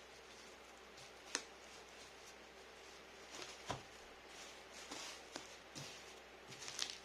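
Handling sounds of packing: a few scattered light knocks and taps, with brief soft rustling between them.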